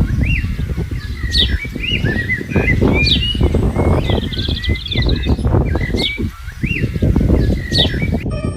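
Birds chirping with short, repeated calls over a loud, rough low rumbling noise.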